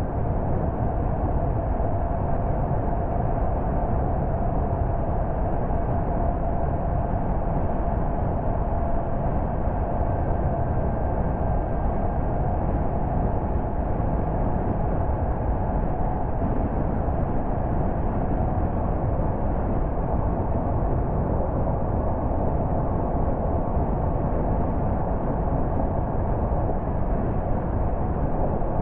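A car driving along at a steady pace: constant tyre and engine noise, with a faint steady hum.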